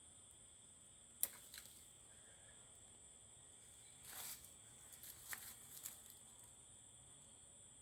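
Faint steady high-pitched insect chorus, two tones held constant, with a sharp click about a second in and two short bursts of rustling or handling noise in the middle.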